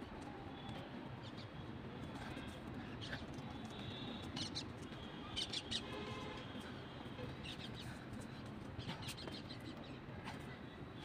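Birds chirping now and then, most around the middle and again near the end, over a steady low outdoor rumble.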